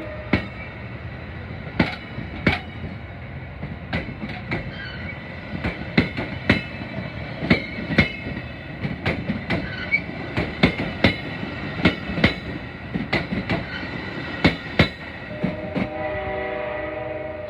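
Metra commuter train rolling along the platform, its wheels clacking over the rail joints in irregular pairs, with a faint steady high wheel squeal. A train horn sounds near the end.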